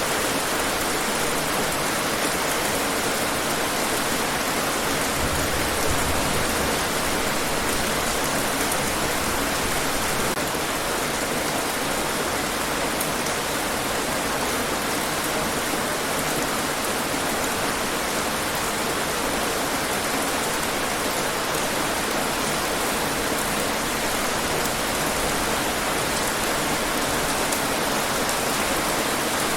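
Steady rainfall: an even, unbroken hiss of rain falling on hard surfaces.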